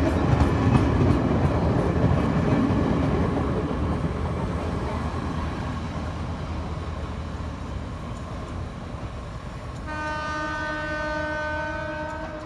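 Sri Lankan diesel train running, its low rumble fading over the first several seconds; about ten seconds in, a train horn sounds one long, steady blast lasting over two seconds.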